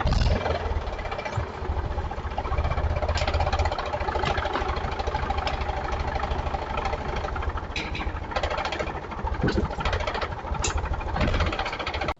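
Vehicle engine running at idle with a rapid, even knocking beat.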